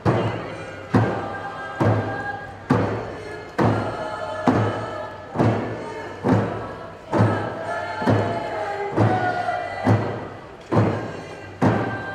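Tlingit group song: voices singing together over a steady beat of drums, one strong beat a little under every second.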